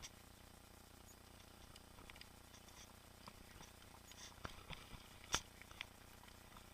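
Faint, irregular clicks and knocks from a mountain bike being ridden over a trail. The clicks bunch together between about four and six seconds in, and the loudest is a sharp click just after five seconds.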